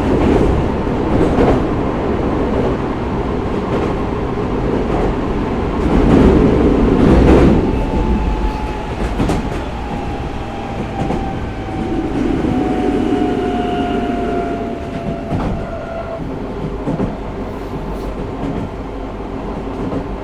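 Tokyo Metro 05 series electric train running at speed, heard from inside the car: wheel and rail rumble with scattered rail-joint clicks, and a faint whine that slowly falls in pitch in the middle of the stretch.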